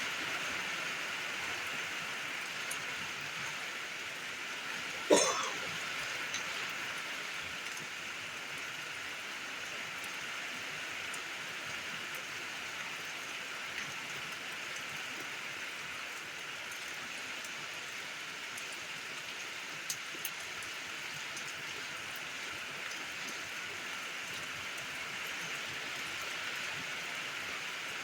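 Steady rain falling, an even hiss with a few scattered drops ticking. About five seconds in, one short, loud sound sweeps quickly upward in pitch.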